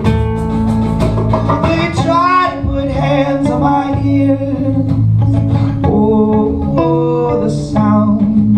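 Live acoustic guitars playing a song, with a man's voice singing a melody over them from about two seconds in.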